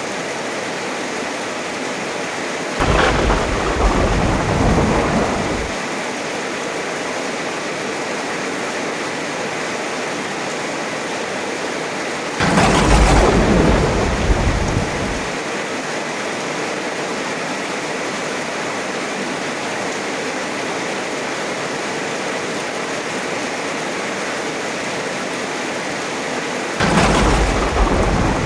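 Heavy rain falling steadily, with three claps of thunder that each start suddenly and rumble for about three seconds: a few seconds in, about halfway through, and near the end.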